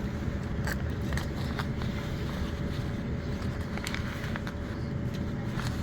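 Class 450 electric multiple unit running along the line, heard from inside the carriage: a steady low rumble with a faint constant tone over it, and scattered clicks and knocks, about five of them.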